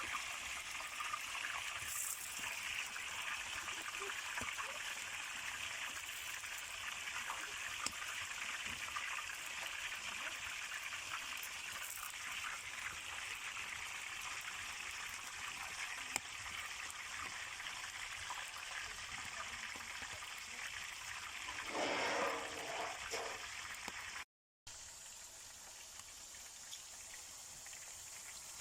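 Hot oil sizzling steadily as eggplant and zucchini slices fry in a pan over a wood fire. It drops out for a moment near the end and resumes quieter.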